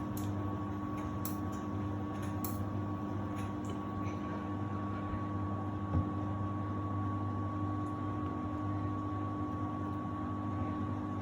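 Samsung WD70T4047CE washer-dryer running with a steady motor-and-fan hum, at what the owner takes to be the start of the drying stage. A single soft thump about six seconds in.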